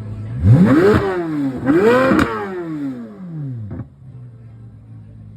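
A car engine revved twice from idle: a quick rise and partial drop, then a second, higher rev that falls slowly back to idle, with a sharp crack near its peak and another as it settles.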